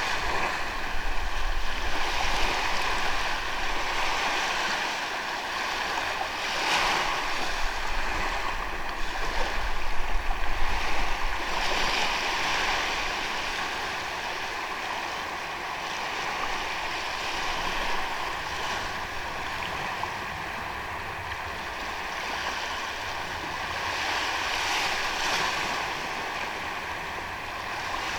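Sea waves washing onto a sandy beach, the surf swelling and fading in slow surges.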